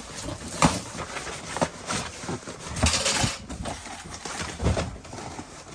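Rummaging through boxes of items: a series of irregular knocks and clatters, about six over a few seconds, with rustling and scraping between them.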